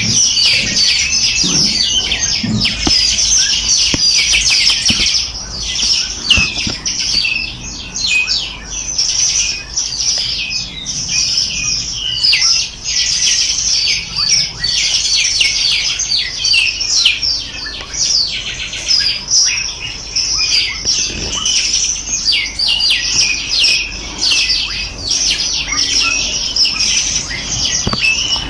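A dense chorus of many small birds chirping and trilling together, a continuous overlapping chatter of quick high notes.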